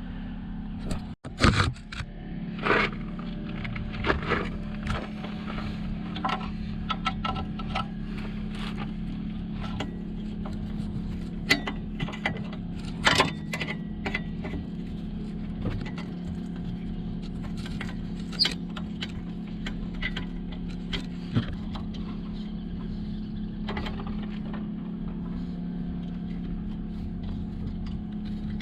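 Scattered clinks, clicks and scrapes of hand tools and metal fittings being worked on a car engine, over a steady low hum.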